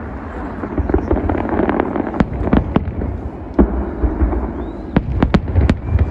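Fireworks display: a run of sharp bangs and crackles over a continuous low rumble, with a cluster of reports about two seconds in and a quicker string of them near the end.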